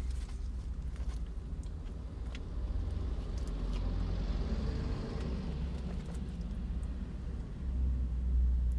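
Low, steady rumble of a car, growing louder near the end, with a few faint clicks and taps over it.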